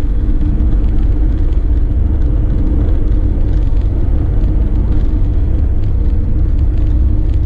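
2016 Volkswagen Crafter dropside truck driving at speed, heard from inside the cab: a steady diesel engine drone with road and tyre rumble.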